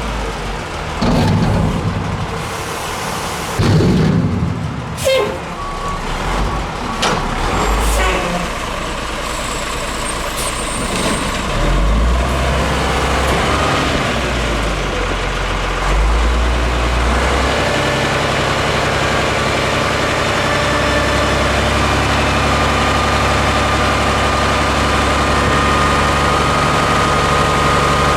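Heil DuraPack Half/Pack front-load garbage truck on a Peterbilt 310 chassis: a few heavy clanks and bangs in the first eight seconds. Then the diesel engine revs up in steps and settles into a steady, high run with a thin steady whine over it.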